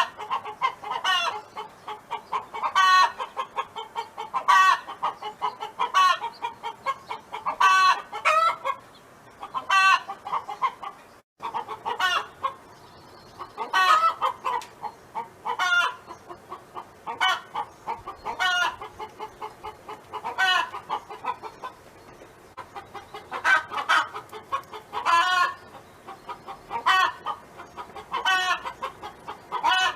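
Domestic hen clucking and calling over and over, one short call about every one and a half to two seconds, with a brief break about eleven seconds in.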